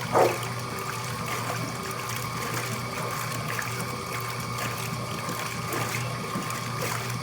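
Water trickling and running in a washing machine over a steady hum, with one short knock about a quarter second in.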